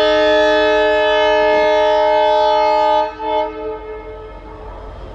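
Indian Railways locomotive air horn sounding one long multi-note blast that cuts off about three seconds in, followed by a short toot, then the low rumble of the train running on the track.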